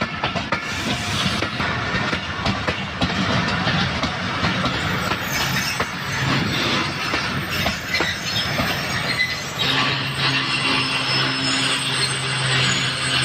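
Karachi Express passenger train's coaches rolling along the platform, wheels clattering on the rails with some squeal. About ten seconds in, a steady low hum starts.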